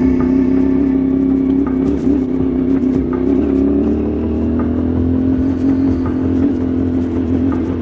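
CFMoto 450MT adventure motorcycle's parallel-twin engine running at fairly steady revs while riding a dirt trail, with a few faint clicks over it.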